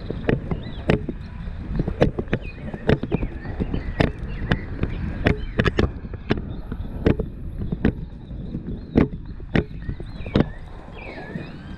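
Horse's hooves striking the ground in an irregular run of sharp knocks, a few per second, with a steady low rumble underneath.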